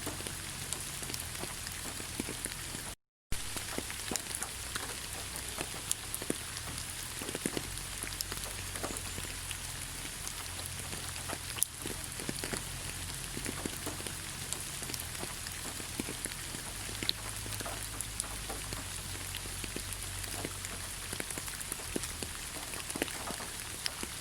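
Steady rain falling in a forest, with many separate drops ticking close by. The sound cuts out completely for a moment about three seconds in.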